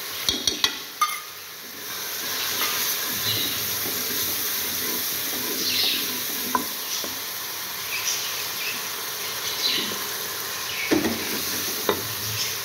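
Tomato, onion, green chilli and ginger masala sizzling in ghee in a metal pot while a wooden spoon stirs and scrapes it. There are a few sharp knocks of the spoon near the start and near the end.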